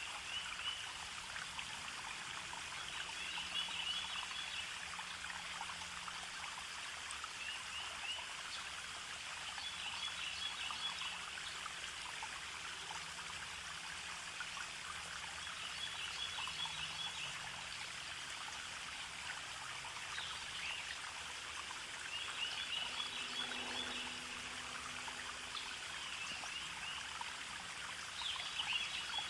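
Stream trickling and flowing steadily, with a bird repeating short high chirping phrases every few seconds.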